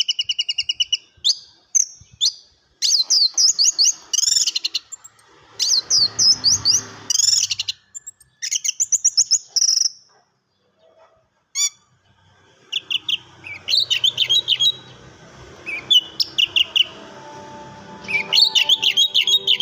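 Orange-headed thrush (anis merah) singing: bursts of fast, high, warbling and trilled phrases repeated with short pauses, and a gap of about two seconds midway.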